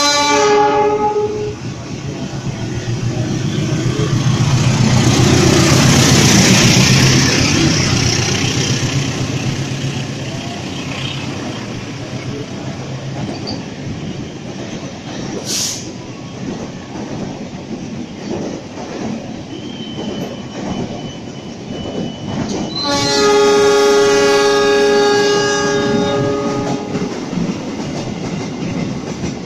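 Diesel freight locomotive sounding its horn as it comes through, its engine loudest as it passes a few seconds in, then a long string of empty container flat wagons rolling by with a steady clickety-clack. A second train horn blast sounds for several seconds about three-quarters of the way through.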